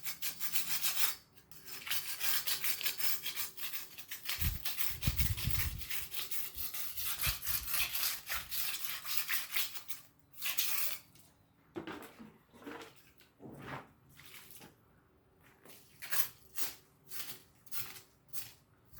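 Metal tool scraping through wet cement mortar in quick repeated strokes, dense for about the first ten seconds, then in separate strokes with short gaps.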